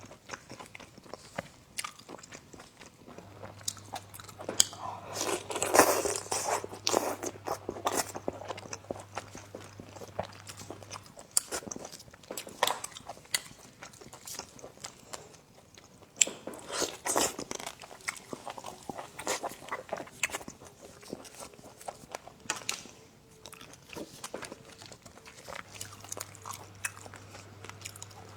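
A person eating close to the microphone: irregular chewing and biting noises made of many quick clicks, with louder stretches about five to seven seconds in and again around seventeen seconds.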